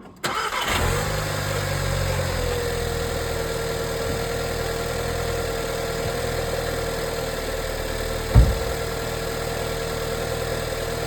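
A 2014 Volkswagen Jetta engine cold-starting: it catches at once and settles into a steady idle. A steady high tone joins in about two seconds in, and there is a single thump about eight seconds in. The engine runs with no unusual noises and sounds healthy.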